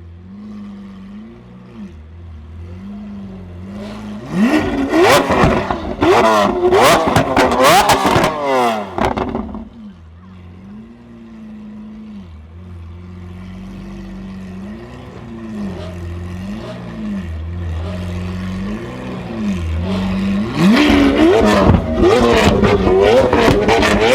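Lamborghini Aventador V12 with a Capristo aftermarket exhaust, idling with a wavering note and then blipped hard in a run of quick revs about four seconds in, settling back to idle before another burst of revving near the end. Sharp exhaust pops and cracks come between the revs.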